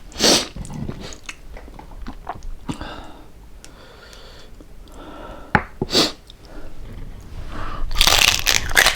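Close-miked chewing and crunching of crispy fried pork jowl, with scattered crackles and two sharp bursts, then a run of denser, louder crunching near the end.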